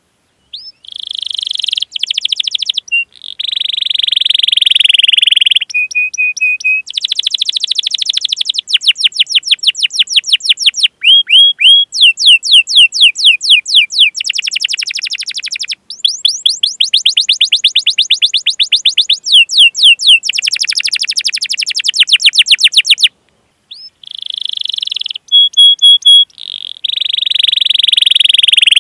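Domestic canary singing a long, continuous song of rapid trills and rolls, with runs of quick falling chirps and short high buzzing phrases, pausing briefly about 23 seconds in.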